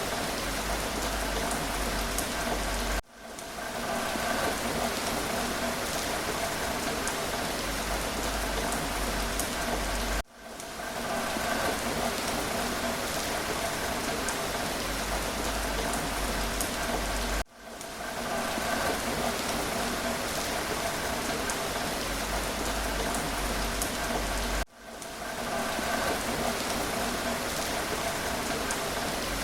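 Steady rain falling, an even hiss of drops. About every seven seconds the sound cuts out for an instant and swells back in, four times.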